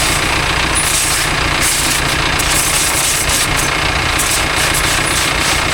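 An engine running steadily under the loud, even hiss of a high-pressure water jet washing down a tractor.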